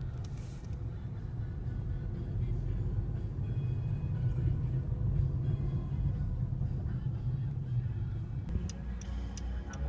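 Helicopter running, a steady low rumble. Near the end a row of sharp, evenly spaced ticks sets in over the rumble.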